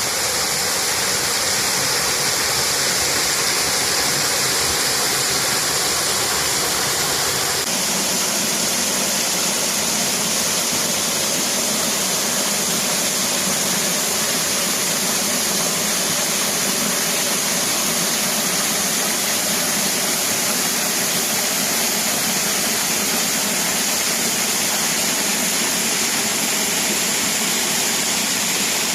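Hörschbach waterfall rushing steadily, a dense noise of falling water with no break. About eight seconds in, the sound shifts abruptly to a lighter, less rumbling rush.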